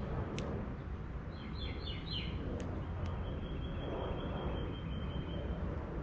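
A songbird singing: four quick down-slurred whistles, then a fast trill lasting a couple of seconds, with a few sharp ticks, over a steady low background rumble.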